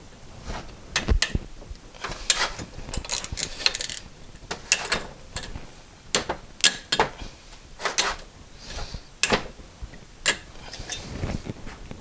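Steel hand tools clicking and clinking as a ratchet and socket are fitted to and worked on a sprag-type stud remover: sharp separate metallic clicks, roughly one or two a second, some in quick pairs.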